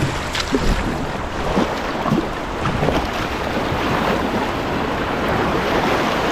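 River water rushing steadily through a rock-dam rapid.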